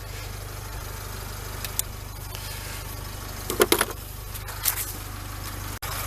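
A steady low mechanical hum with a fine regular pulse, like a motor running, with a few light clicks and clinks around the middle.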